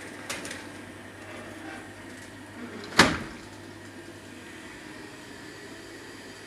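A single sharp knock about three seconds in, with a fainter click shortly after the start, over a steady low hum.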